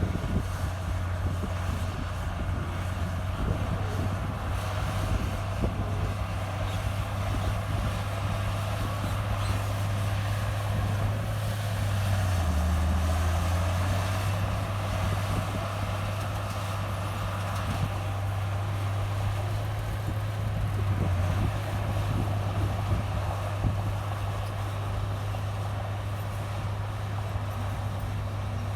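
Diesel engine of a Komatsu bulldozer running steadily with a low drone as it works soil. About twelve seconds in, the engine note drops lower and gets a little louder for a couple of seconds, then returns to its earlier pitch.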